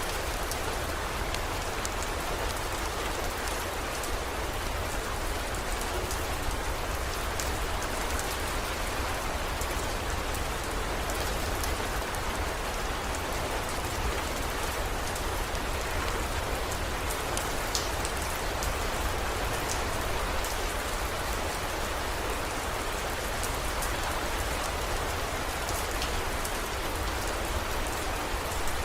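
Heavy rain falling steadily, with scattered sharp drop ticks and a low rumble underneath.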